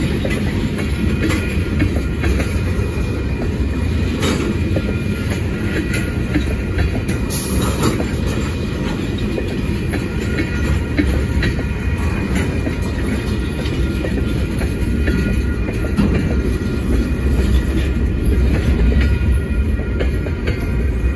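Freight cars rolling past, tank cars and then open-top hoppers: a steady heavy rumble of steel wheels on rail, with occasional sharp clacks over rail joints and a few faint, thin, high whining tones above.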